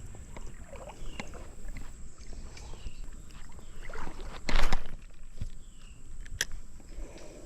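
A short, loud splash of water a little past halfway, over a steady low rumble, with short high chirps repeating every second or so and a sharp click near the end.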